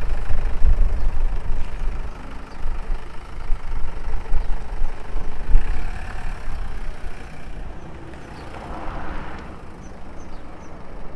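A car engine running as a vehicle drives close by, with a low rumble that is loudest in the first half and eases off after about seven seconds.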